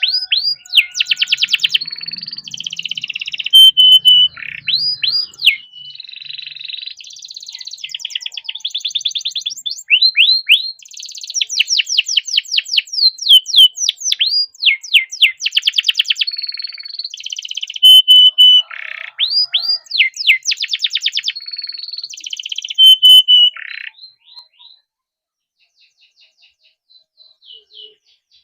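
Domestic canary singing a long, unbroken song of fast trills, runs of repeated down-sweeping notes and short held whistles. It stops about 24 seconds in, and a few faint notes follow near the end.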